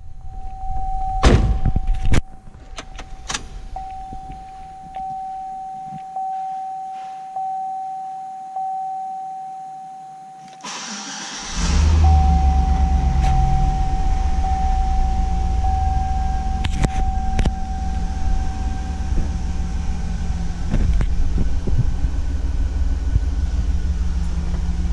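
Inside the cabin of a 2004 Chevrolet SSR: a couple of sharp knocks, then the dashboard warning chime dinging about once a second. The starter cranks briefly and the 5.3-litre V8 catches and settles into a steady idle, the chime carrying on over it for a while and then stopping.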